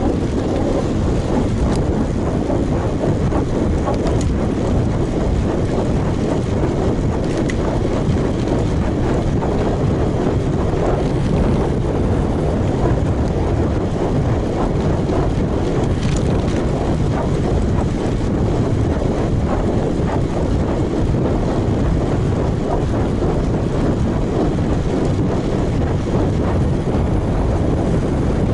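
Steady wind rushing over a chest- or helmet-mounted action camera's microphone as a road bike rolls along, mixed with tyre noise on the road, with a few faint clicks.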